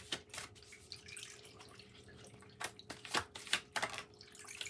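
Tarot cards being handled and drawn from the deck: a few scattered soft clicks and taps, with a cluster of them about three seconds in.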